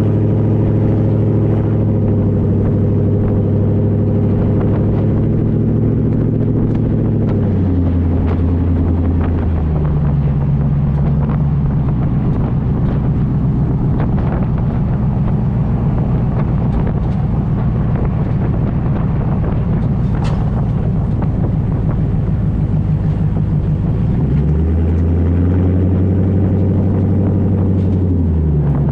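Land Rover Defender 90's Rover V8 running through a full custom exhaust, a steady, loud engine note. The note changes pitch in steps several times, about a quarter of the way in, again shortly after, and twice near the end, as the revs change.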